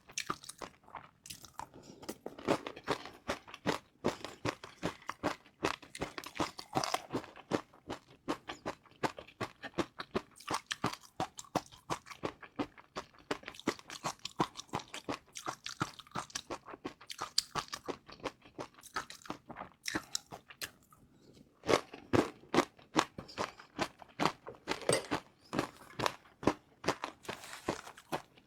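Close-miked crunching and chewing of crispy fried noodles: a rapid run of crackly crunches, with a brief pause a little past two-thirds of the way through before the crunching resumes.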